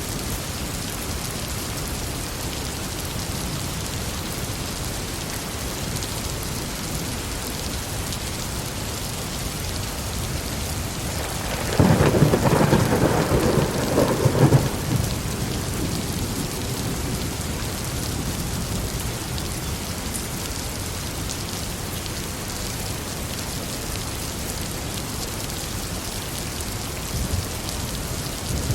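Steady heavy rain with one clap of thunder that cracks and rumbles for about three seconds, starting about twelve seconds in.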